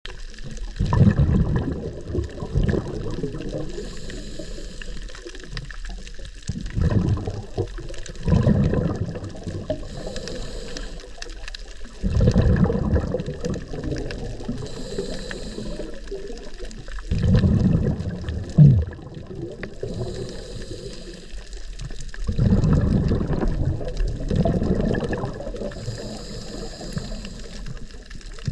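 Scuba diver breathing underwater through a regulator: a short hiss on each inhale, then a louder burst of exhaled bubbles rumbling up, repeating about every five to six seconds.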